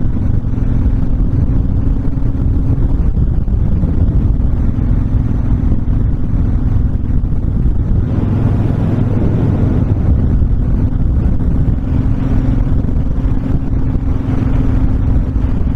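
Honda VTX1300 cruiser's V-twin engine running at a steady cruising speed, with heavy wind rushing over the microphone because the bike has no windshield. The engine hum holds one steady pitch throughout.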